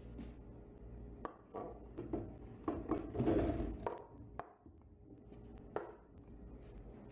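A knife blade and zucchini pieces knocking and scraping on a wooden cutting board as the pieces are pushed off into a pan: a string of sharp knocks, with a louder stretch of scraping and tumbling about halfway through.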